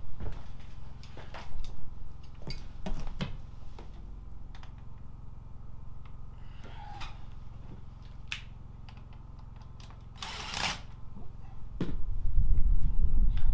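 Scattered light clicks and knocks, typical of small metal chimney parts and screws being handled and fastened, with a short hiss about ten seconds in. From about twelve seconds on a loud low rumble takes over as the loudest sound.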